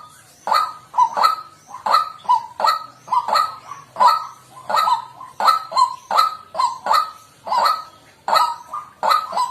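White-breasted waterhen calling: a steady run of short, repeated calls, about two or three a second.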